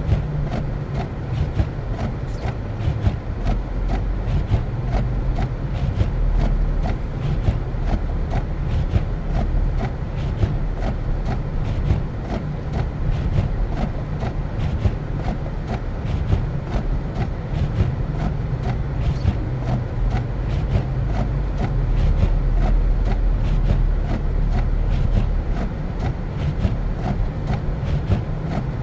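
Car driving on a snow-covered road: a steady low rumble of engine and tyres, with frequent small irregular clicks and crackles.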